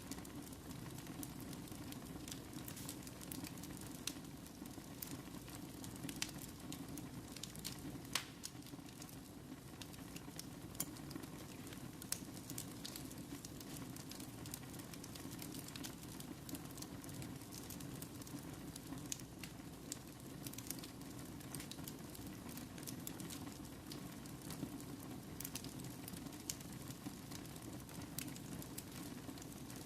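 Wood fire burning steadily, with a low rumble of the flames and frequent sharp crackles and pops.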